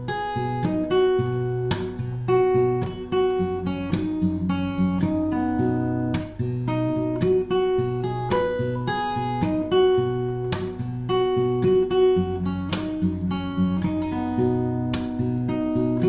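Background music: an acoustic guitar playing a steady run of plucked notes over a low bass line.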